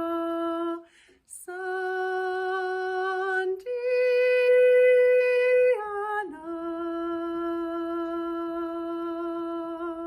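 A woman's solo voice singing long, wordless held notes with a light vibrato: a low note, a short break, a slightly higher note, then a louder higher note held for about two seconds that slides back down into a long low note.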